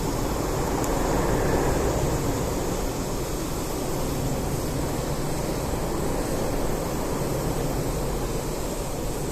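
Campfire burning: a steady low rushing noise with a single faint crackle about a second in.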